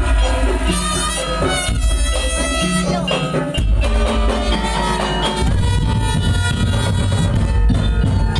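Madurese daul ensemble music: a reedy, wind-like melody over heavy, pulsing drum and bass, with the bass pattern turning denser partway through.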